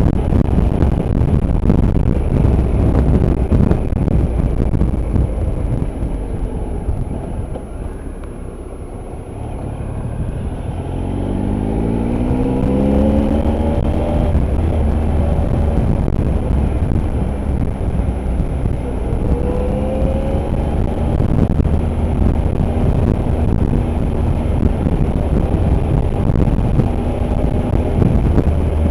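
Motorcycle engine running under way with heavy wind and road noise. About a third of the way in it eases off, then accelerates with a rising engine pitch, and it picks up again twice later.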